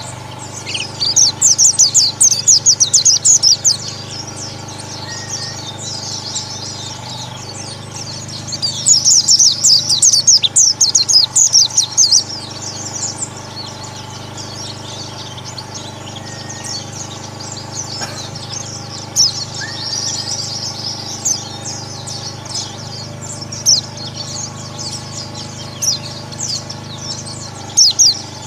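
A flock of white-eyes (pleci, Zosterops) chirping and twittering together in dense, rapid high calls. The calls are loudest and busiest in two stretches, about a second in and again around nine to twelve seconds, then thin to scattered chirps. A steady low hum runs underneath.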